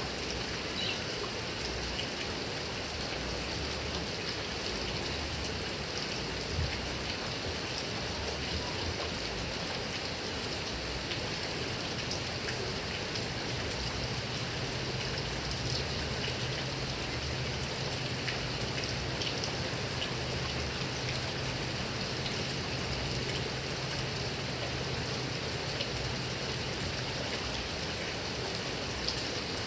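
Heavy rain falling steadily on grass and palm trees, an even hiss with scattered single drops ticking through it. A faint low hum joins it about halfway through and fades near the end.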